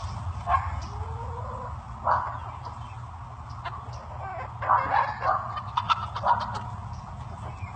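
Short animal calls at irregular intervals, several of them close together around five to six seconds in, over a steady low hum.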